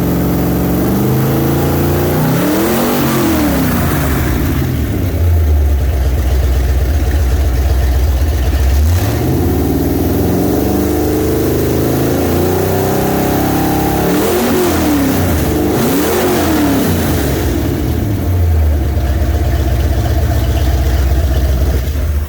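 Ford 351 Windsor small-block V8 with a roller cam running and being revved: the pitch rises and falls about two seconds in, again around ten seconds, then in two quick blips past the middle, settling back to steady running between.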